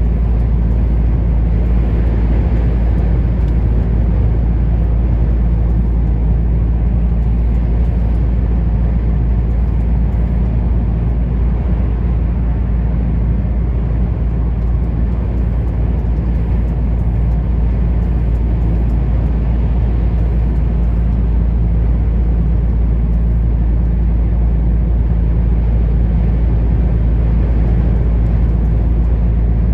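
Truck driving along at a steady pace: a constant low engine drone with road noise, unchanging throughout.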